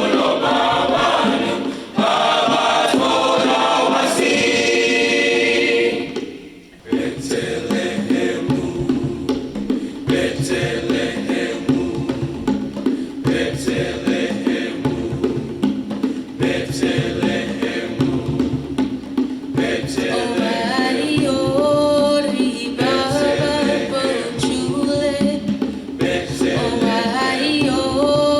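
A choir singing with musical accompaniment, with a brief break about six seconds in before the singing resumes over a steady held low note.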